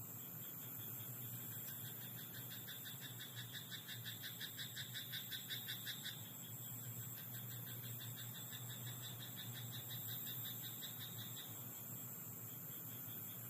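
Frogs calling in a rice paddy at night: rapid runs of evenly repeated croaks, overlapping, loudest about five seconds in, over a steady high hiss.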